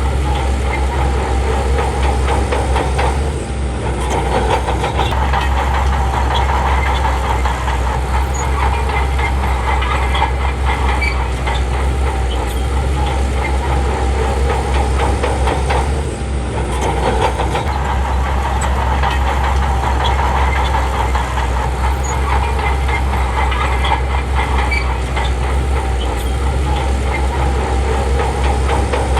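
Shantui crawler bulldozer's diesel engine running steadily under work, dipping briefly about three seconds in and again about sixteen seconds in.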